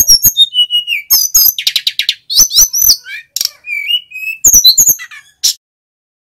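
Male sikatan gunung, a flycatcher, singing a fast, varied song of high whistled notes, slurs and trills with sharp clicky notes mixed in, breaking off near the end.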